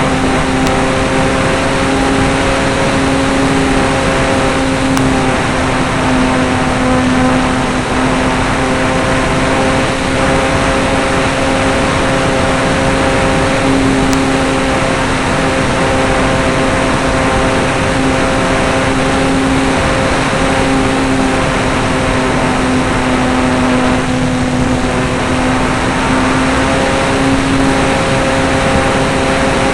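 Motor and propeller of a radio-controlled model IL-2 airplane running at a steady, slightly wavering pitch, heard from a camera mounted on board, with rushing air noise over the microphone.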